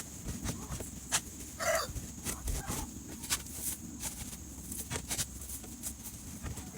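Chickens clucking, one brief call standing out just under two seconds in, over a quick, irregular run of scrapes and clicks from a scraper working a coop floor clean.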